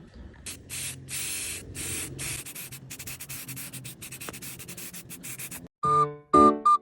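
Aerosol spray-can primer hissing in several short bursts, followed by a run of quick light ticks. A whistled tune starts near the end.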